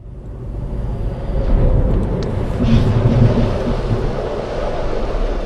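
Steady rumble of a moving road vehicle, louder in the middle, with a brief click about two seconds in.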